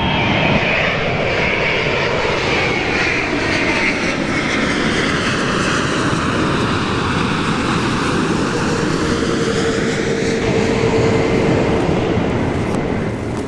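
A jet airliner's engines passing overhead, a steady rushing noise with a slowly shifting hollow tone as the plane goes by.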